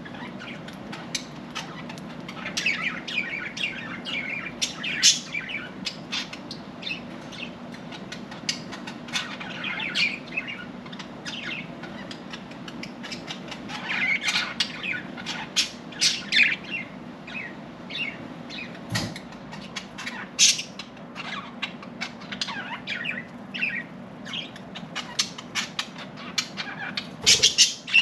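Several pet budgerigars chirping and warbling, a steady stream of short high chirps with a louder flurry near the end.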